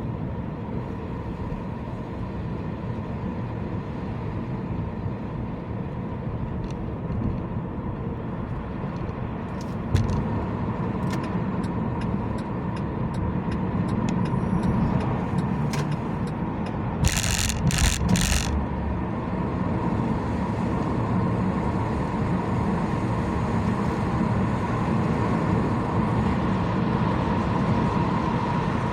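Car driving with steady road and tyre noise and a faint steady whine. There is a single thump about a third of the way in, and three short, sharp noises in quick succession about two-thirds of the way in.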